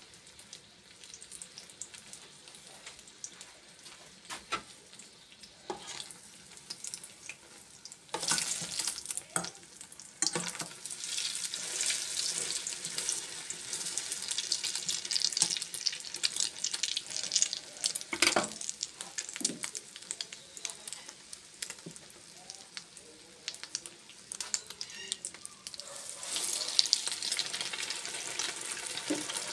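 Egg-battered stuffed chiles frying in hot oil: a quiet start with a few clicks, then a strong sizzle that jumps up about eight seconds in, eases somewhat in the second half and surges again near the end.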